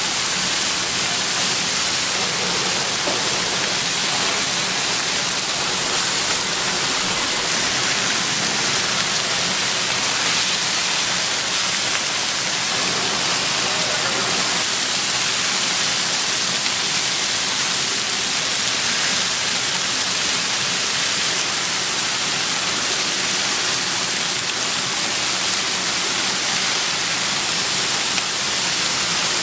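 Food sizzling steadily in hot oil, a loud, even hiss that does not let up.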